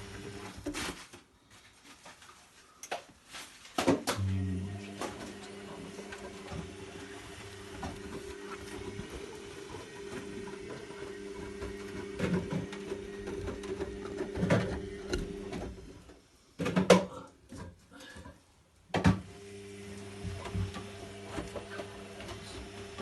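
Zanussi Lindo 100 washing machine humming steadily as its cottons 40 cycle begins. The hum cuts out twice for a few seconds, with clicks and knocks around each pause.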